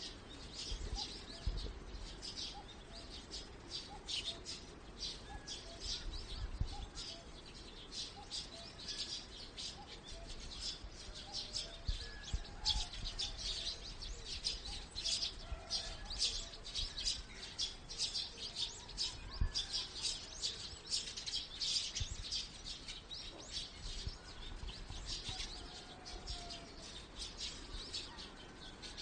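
A chorus of small birds chirping busily, many short high chirps in quick, overlapping succession, with a few lower calls mixed in.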